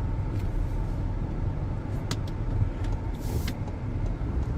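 Car driving: steady low road and engine rumble, with a few light clicks and a short hiss a little over three seconds in.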